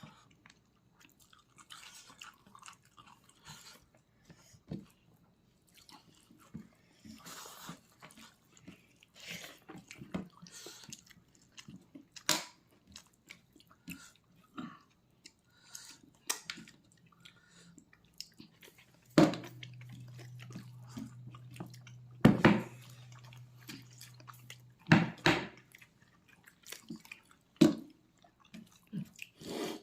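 Close-up chewing and biting of pork leg: irregular wet mouth smacks and clicks, with a few sharp, louder smacks.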